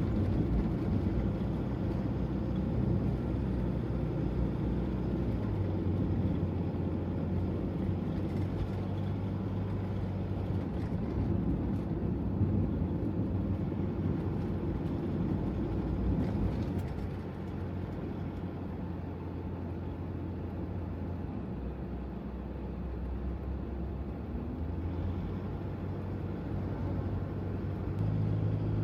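Toyota HiAce van on the move: a steady engine hum with road noise, easing off a little about two thirds of the way through.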